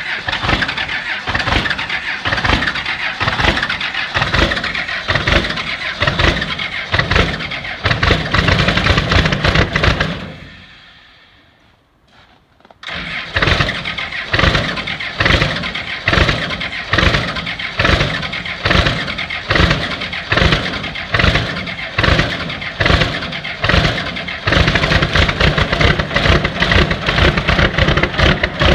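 1995 Dodge 2500's Cummins 12-valve inline-six diesel on a cold start, running with a regular pulsing about once or twice a second. About ten seconds in it fades away to near silence; a few seconds later it fires up again suddenly, and near the end it runs fuller and more evenly.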